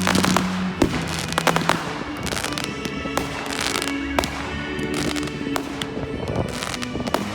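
Fireworks going off: a string of bangs and crackles, thickest in the first couple of seconds and scattered after.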